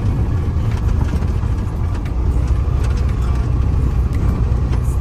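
28 ft box truck under way, heard from the cab: a steady low rumble of engine and road noise.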